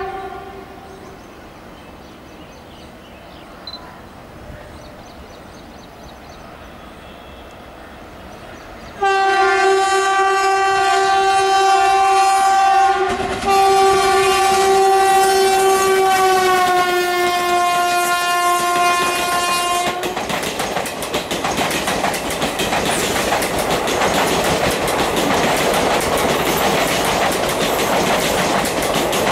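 Indian Railways locomotive horn: a short sounding at the start, then a long blast from about nine seconds with a brief break near thirteen seconds and a slight drop in pitch as it passes. From about twenty seconds the train rushes past, its wheels clattering over the rail joints.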